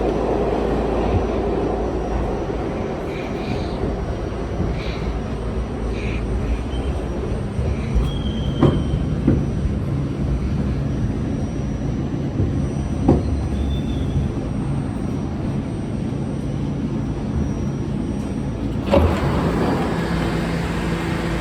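R68 subway car running along the track: a steady rumble with a few sharp knocks, about a third of the way in, just past halfway and near the end.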